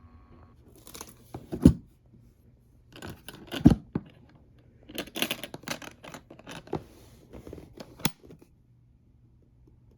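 Handling noise close to the microphone: irregular clicks, knocks and rustling of objects being moved, with two heavier knocks around two and four seconds in and a sharp click about eight seconds in.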